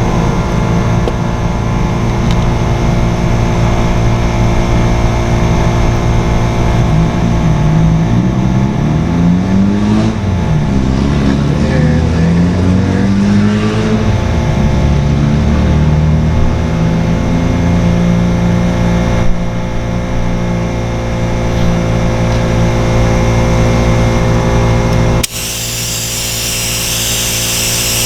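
A steady electric motor runs with air rushing, its pitch wavering up and down for several seconds midway. The sound drops abruptly near the end.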